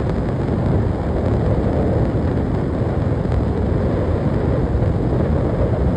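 Steady, loud rumble of wind buffeting the microphone.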